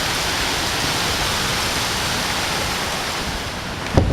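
Heavy rain falling steadily, a dense, even hiss with no separate hailstone impacts, as the hail has given way to ordinary rain. A single sharp knock near the end.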